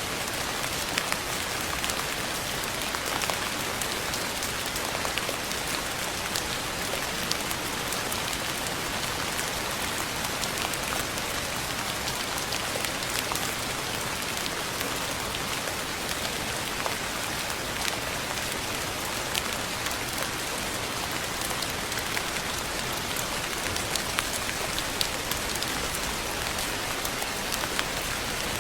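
Steady rain falling, an even hiss with scattered sharper ticks of individual drops striking close by.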